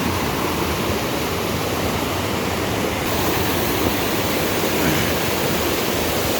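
Glacier-fed mountain stream rushing: a steady, loud rush of water.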